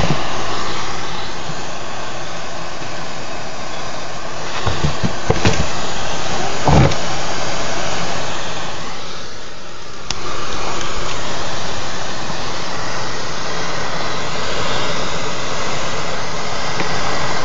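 Gas torch flame burning with a steady hiss while it heats flux and wire to solder them. The hiss dips briefly about ten seconds in, and a few knocks come between about five and seven seconds in.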